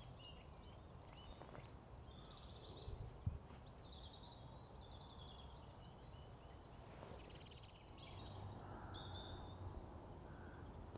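Faint birdsong, short chirping phrases on and off throughout, over a low steady outdoor rumble, with a single click about three seconds in.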